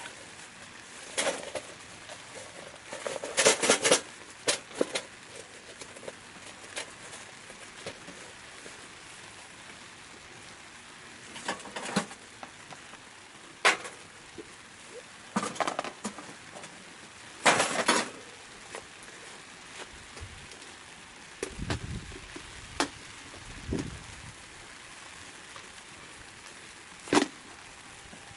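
Scattered knocks and clatters of objects being handled, some in short clattering clusters and a few low thumps about two-thirds of the way through, over a steady hiss.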